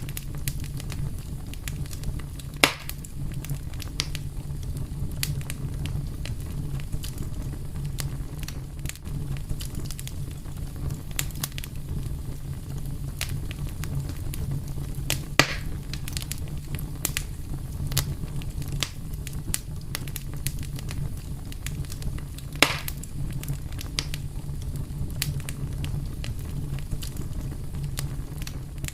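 Fire crackling, with a steady low rumble of burning and constant small snaps, plus three louder pops spread through it.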